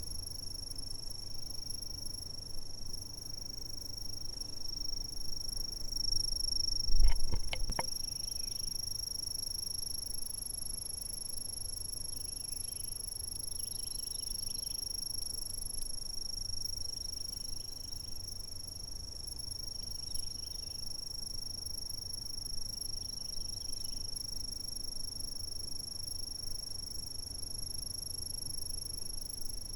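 Chorus of insects trilling in one continuous, unbroken high-pitched tone, with fainter scattered chirps. A brief low thump with a few clicks comes about seven seconds in.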